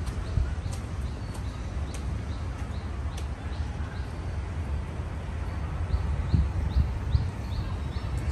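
A bird calling repeatedly in short, high, rising chirps, about two a second, stopping near the end, over a steady low rumble.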